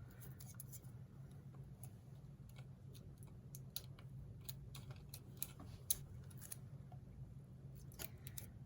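Faint scattered clicks, snips and rustles of heat transfer tape being pulled, cut and pressed across sublimation paper wrapped on a mug, over a steady low hum.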